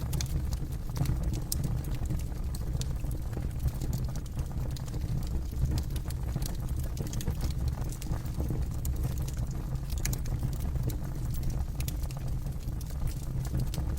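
Wood campfire crackling, with frequent sharp irregular pops and snaps over a steady low rumble of burning.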